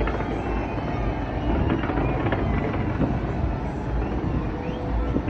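Large fireworks display heard from a distance: a continuous rumble with many sharp pops and crackles.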